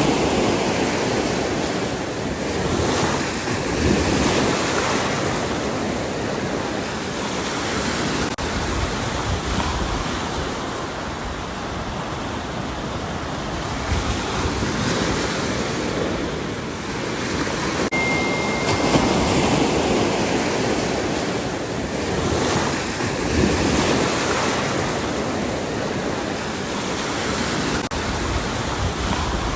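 Ocean surf: waves breaking and washing in, a continuous rushing hiss that swells and eases every few seconds.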